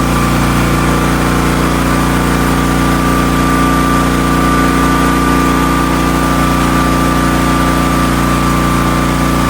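The 16-horsepower gasoline engine of a Hotsy hot-water pressure washer running steadily at a constant speed, driving the pump, with a thin steady high tone over it.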